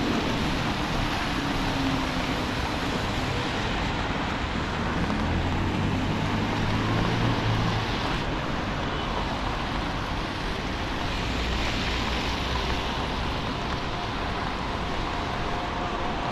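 City traffic on a rain-wet street: cars passing with a steady hiss of tyres and rain over the wet road. A deeper engine hum builds about five seconds in and fades near the middle.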